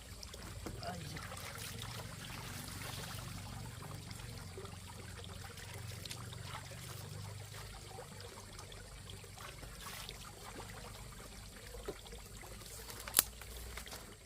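Water trickling steadily, with one sharp click near the end.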